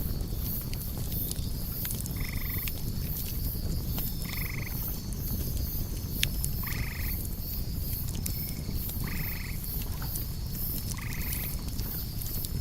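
Campfire ambience: a steady low rumble of burning wood with scattered sharp crackles, under crickets chirping in a steady high pulse. A frog croaks five times, a short call about every two seconds.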